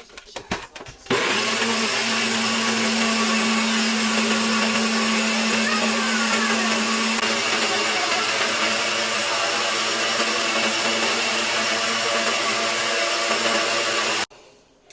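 A loud, steady whir of an electric appliance motor, starting abruptly about a second in and cutting off sharply near the end.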